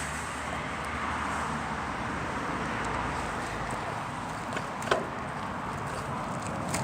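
Steady rushing noise of a bicycle being ridden, with one sharp click about five seconds in.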